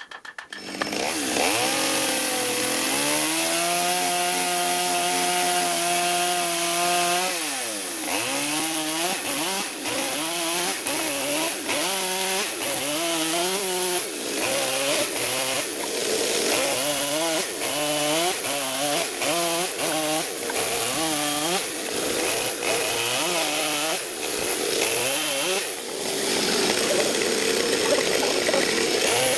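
Chainsaw starting up about a second in and running at steady high revs for several seconds, then dropping. After that it is throttled up and down about once a second for much of the time before it steadies again near the end.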